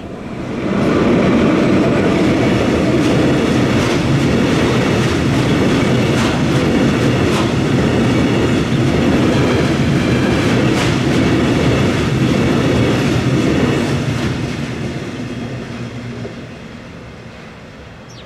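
Freight train rolling past at close range, wheels clicking over the rail joints. It swells within the first second, runs steadily for about thirteen seconds, then fades away over the last few seconds.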